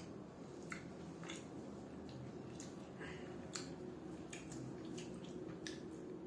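Close-up mouth sounds of a person eating soft milk-soaked pitha: irregular wet chewing clicks and lip smacks, about a dozen, over a faint low hum.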